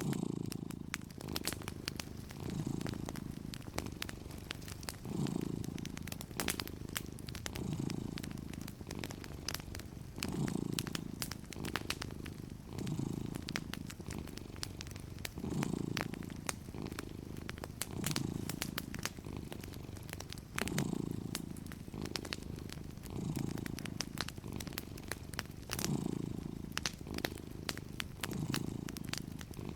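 A cat purring steadily, the purr swelling with each breath about every two and a half seconds, over the light, irregular crackle of a wood fire.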